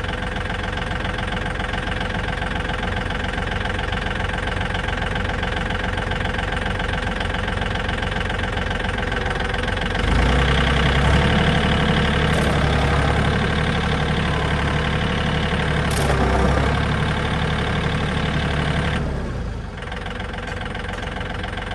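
Tractor engine idling, then about halfway through running up louder and deeper for about nine seconds as it takes up the pull on the chassis, before dropping back to idle. A couple of sharp knocks during the pull.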